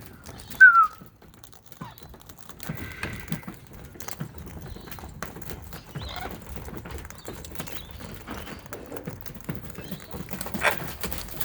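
Cockatoos eating, with rapid irregular clicking and tapping throughout. A short descending squawk comes about a second in, and another call near the end.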